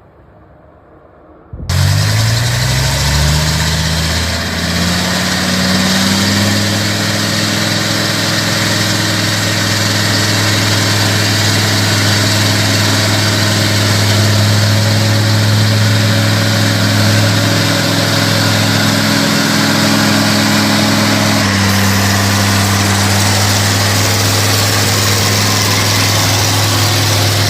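A heavy vehicle's engine cuts in about two seconds in and climbs in pitch for a few seconds as it speeds up, then runs steadily, hauling a timber load. Its pitch steps down slightly about three-quarters of the way through.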